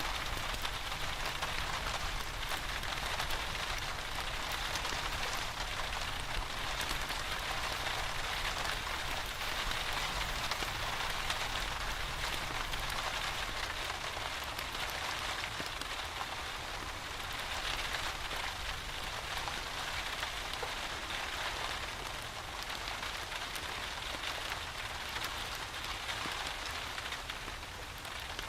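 Steady rain falling: a continuous, even hiss of many drops with fine patter.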